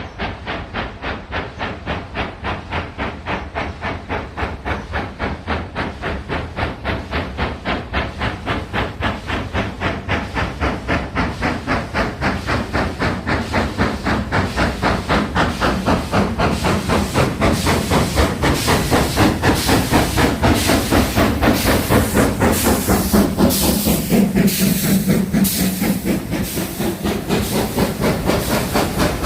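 Steam locomotive working under power, its exhaust beats coming in a quick, even rhythm, growing louder as it approaches and passes close.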